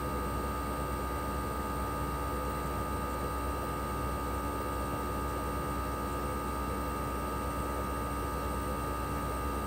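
Toshiba RAS-285BAD outdoor unit running steadily in cooling mode: its twin rotary inverter compressor and propeller fan, a smooth even run with a low hum, a whoosh of air and a steady high whine over it.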